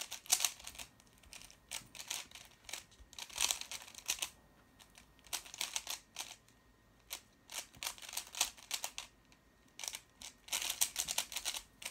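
A 3x3 Rubik's cube being turned quickly in the hands: bursts of rapid plastic clicking and clacking from the turning layers, in clusters broken by short pauses.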